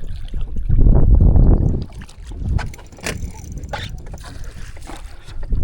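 Handling noise aboard a fishing kayak: low rumbling bumps, loudest about a second in, then a few sharp clicks and knocks around three seconds in.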